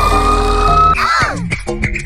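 A long, shrill meme scream sound effect, held steady for about a second, then breaking into quick falling squawks. It cuts to a beat of electronic meme music.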